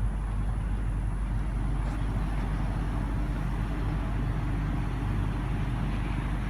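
Steady low rumble of motor vehicle noise, unchanging throughout.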